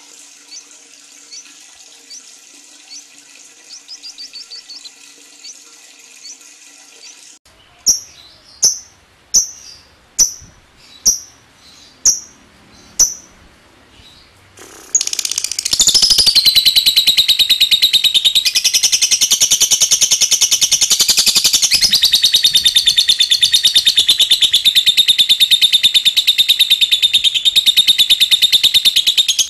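Lovebird calling. First come faint chirps, then about eight loud sharp single calls less than a second apart. About halfway through, these give way to a long, unbroken, fast-pulsing chattering trill, the lovebird's long 'ngekek'.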